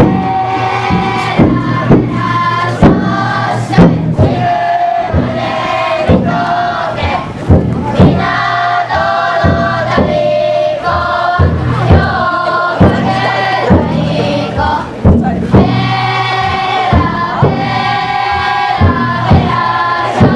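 Group of voices chanting in long drawn-out calls around a futon daiko festival drum float, with loud strikes on its taiko drum about once a second.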